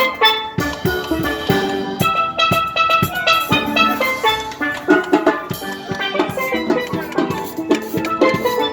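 A steel band playing: many steel pans striking quick, ringing melodic notes over a steady drum beat.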